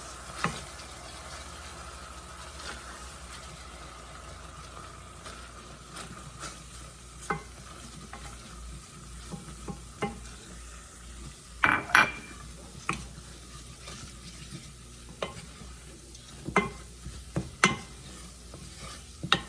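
A whisk stirring flour into melted butter and seasonings in a skillet to make a roux, with a light sizzle under it. Scattered sharp taps and clicks of the whisk against the pan, with a cluster of louder ones about twelve seconds in.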